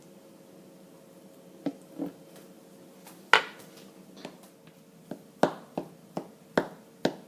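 About ten irregular knocks and clinks of kitchen utensils while preparing food, sparse at first and quicker in the second half, the loudest about three and a half seconds in, over a faint steady hum.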